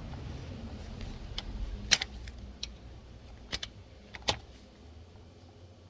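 Hand work on a glow plug wiring harness connector under a valve cover: a scattered series of about six sharp clicks and light taps of plastic and metal as the connector is pushed and worked onto the glow plug. Low rubbing and handling noise fades after about two seconds.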